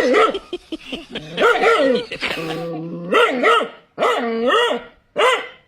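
Dog barking and whining in a run of about five drawn-out calls, each bending up and down in pitch.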